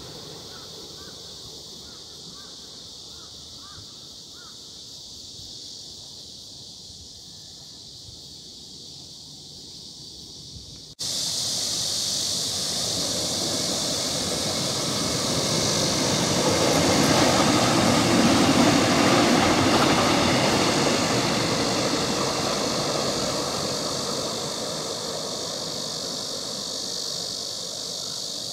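Electric-locomotive-hauled passenger train passing on the rails: a loud, even rumble and rush of wheels on track that begins abruptly about eleven seconds in, swells to its loudest a few seconds later and then slowly fades. Before it, a quieter outdoor background of a steady insect buzz with a few faint chirps.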